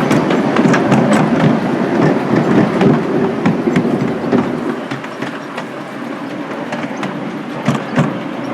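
Miniature railway train running along the track, its wheels clicking over the rail joints over a steady rumble. It grows somewhat quieter about halfway through and picks up again near the end.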